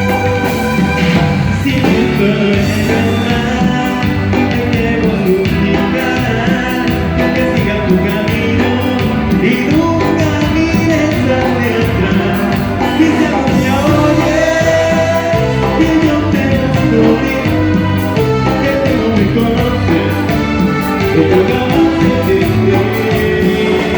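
Live band music played loud: a steady beat and bass under sustained melodic lead lines, with no words sung clearly.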